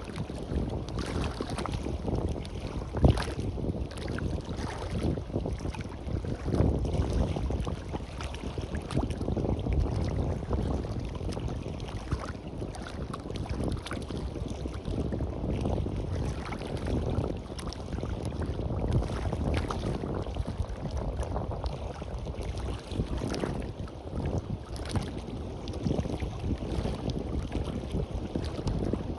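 Wind gusting across the microphone over the wash of surf on a beach, a continuous low rush that swells and eases, with a few brief sharp knocks, the clearest about three seconds in.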